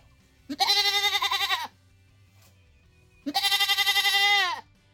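A goat bleating twice: two long, quavering bleats of a little over a second each, the second starting about three seconds after the first.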